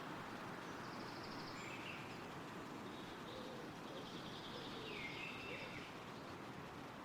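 Wind rustling steadily through trees, with a few short phrases of birdsong from woodland birds, one about a second in and more from about three seconds in.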